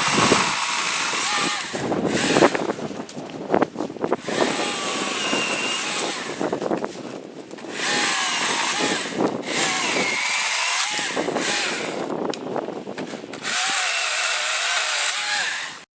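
Husqvarna 120i battery-powered chainsaw: the electric motor whines and the chain cuts through hard maple limbs in several bursts, with short pauses between cuts. The pitch of the whine wavers as the chain bites into the wood.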